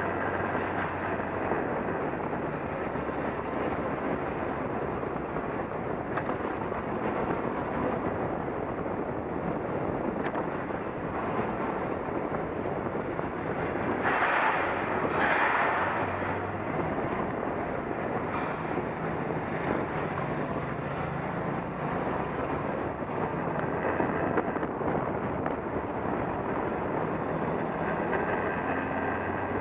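Motorcycle on the move: steady wind rush on the microphone over the engine's low hum, which shifts in pitch now and then. A louder rush of noise comes about halfway through.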